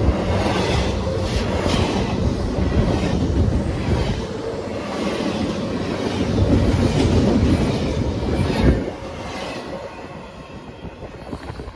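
A train passing close by, its wheels clattering over the rail joints in a steady run of clicks. The sound drops away sharply about nine seconds in.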